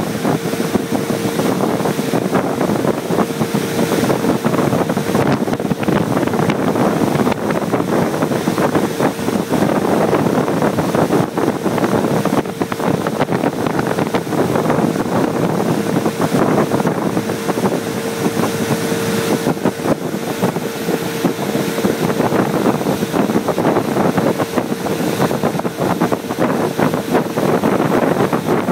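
Motorboat engine running steadily at speed with a constant, even whine, mixed with rushing water and wind buffeting the microphone.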